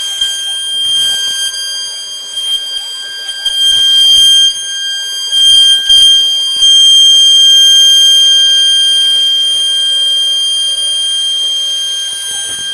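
CNC router spindle whining at a steady high pitch as it cuts a design into shutter board, getting louder in short bursts and then holding louder for the second half as the bit bites harder.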